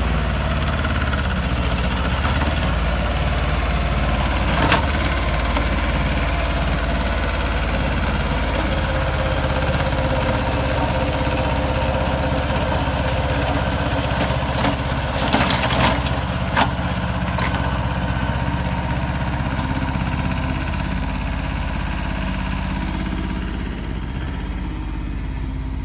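Small Yanmar tractor's diesel engine running steadily, driving a PTO rotary tiller through garden soil. A few sharp knocks cut through the engine sound, one about five seconds in and a cluster a little past the middle.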